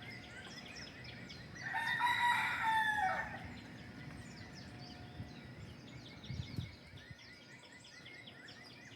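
A rooster crows once, a call of about a second and a half that drops in pitch at the end. Behind it runs a steady dawn chorus of small birds chirping rapidly.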